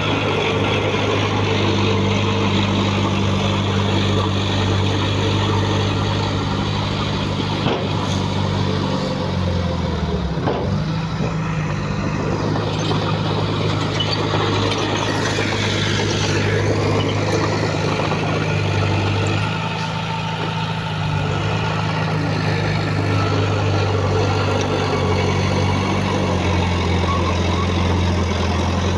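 Heavy diesel engine of an earthmoving machine running steadily, with a brief drop and recovery in engine pitch about ten seconds in, and a faint higher whine rising and falling a little later.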